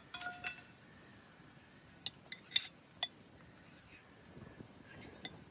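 Cutlery and dishes clinking: a few sharp, ringing clinks about two to three seconds in.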